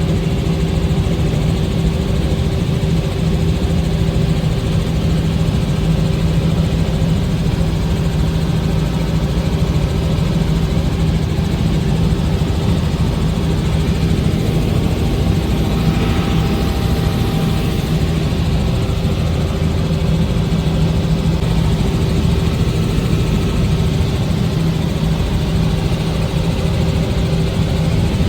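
Helicopter running with a steady, unbroken drone and hum.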